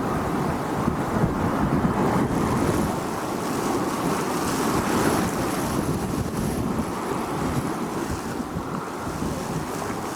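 Wind blowing on a beach, a steady rushing noise that gently rises and falls, with a faint high hiss through the middle.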